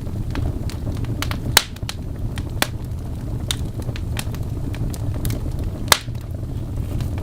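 Log fire in a fireplace crackling, with irregular pops over a steady low rumble; two sharp pops stand out, about a second and a half in and near six seconds.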